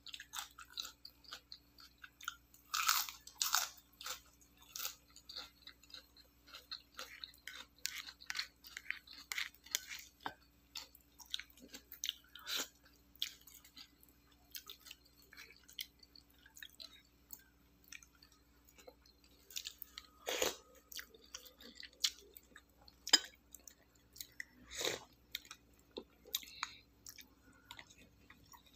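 A person chewing and biting crisp food close to the microphone, with a string of small crunches, louder bites about three seconds in and again around twenty and twenty-five seconds in.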